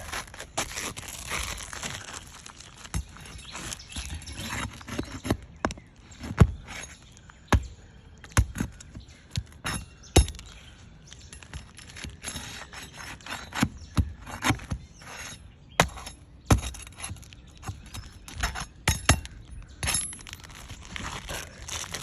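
Irregular sharp knocks, clicks and scrapes of a tool working under roof shingles, prying up tabs and pulling nails, with the crackle of shingles breaking as they are lifted.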